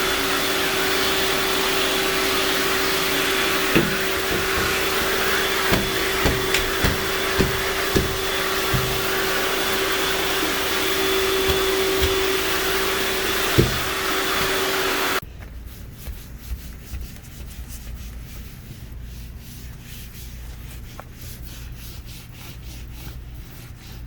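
Vacuum cleaner running with a steady hum while the nozzle knocks against surfaces several times. It is switched off abruptly about fifteen seconds in, and a few soft thumps follow.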